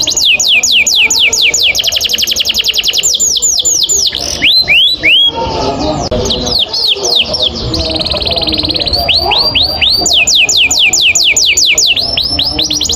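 Canary singing a long rolling song: fast trills of high falling notes, each phrase repeated many times before switching to the next, with a few slower, lower swooping notes about four to five seconds in.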